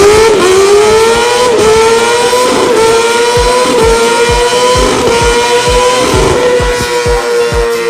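Kawasaki ZX-6R inline-four engine held at very high revs at top speed, a steady high howl that settles after climbing in pitch at the start. A regular bass-drum beat of background music comes in about three seconds in.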